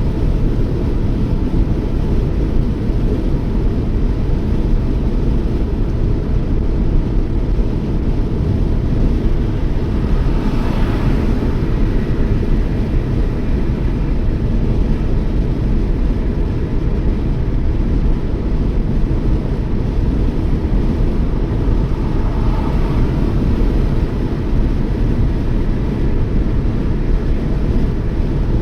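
Steady low rumble of a Toyota Yaris driving at road speed, engine and tyre noise. The higher hiss swells briefly twice, about ten seconds in and again past twenty seconds.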